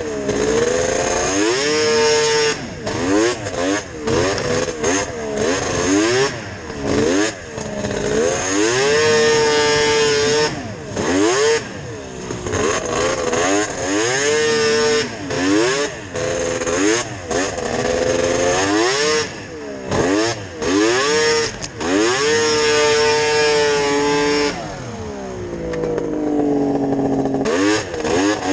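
Yamaha VMAX 700 snowmobile's three-cylinder two-stroke engine on aftermarket Hauck expansion-chamber pipes, revving hard and backing off again and again, holding high revs for a second or two at a time. Near the end the revs fall away slowly, then pick up again.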